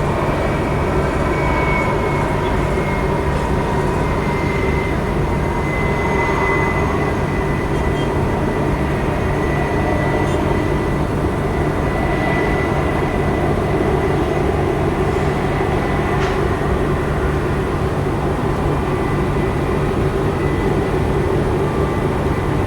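Jet airliner engines running steadily, with a high whine that falls slightly over the first few seconds and then holds level under a loud, even rumble.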